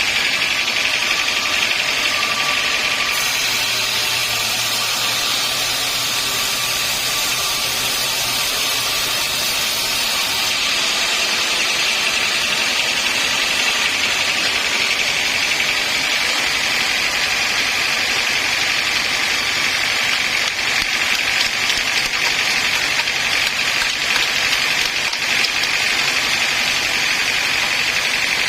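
Sawmill machinery running steadily: a constant, unbroken mechanical noise with no pauses or strikes.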